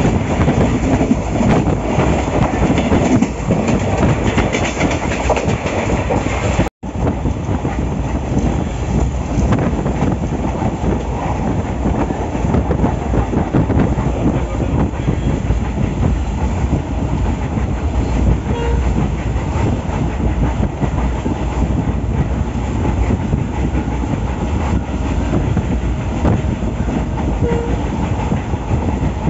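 Express passenger train running along the track, heard from a coach window: a steady rumble of the wheels on the rails, with a brief gap in the sound about seven seconds in.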